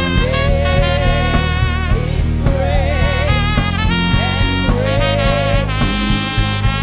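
Live worship band music: a trumpet plays a wavering lead melody in short phrases over keyboard and bass accompaniment.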